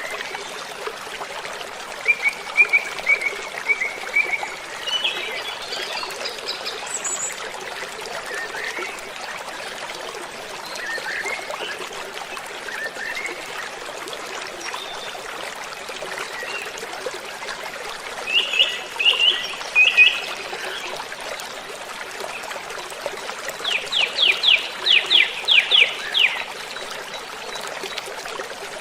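Waterfall flowing with a steady rush, with songbirds chirping over it; near the end one bird gives a quick run of about ten evenly spaced notes.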